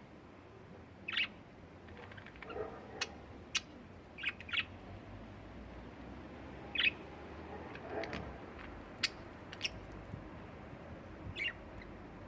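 Budgerigars giving short, scattered chirps and sharp tweets, each lasting a fraction of a second with gaps between.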